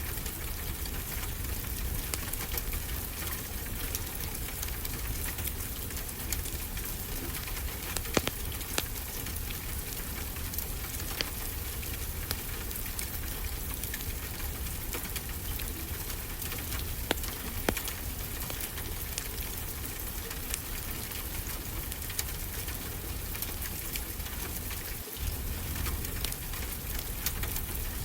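A fireplace crackling, with scattered sharp pops, over a steady wash of ocean surf.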